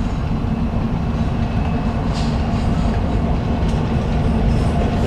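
Diesel locomotives hauling a coal train, their engines running with a steady low drone over the rumble of the train. The sound grows slightly louder as the train approaches.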